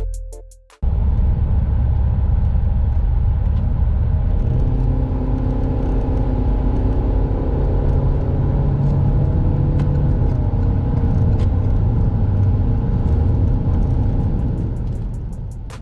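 Renault Laguna 2.0 dCi four-cylinder diesel car under hard acceleration: a loud low rumble with an engine note that climbs steadily in pitch, cutting in suddenly about a second in and fading out near the end.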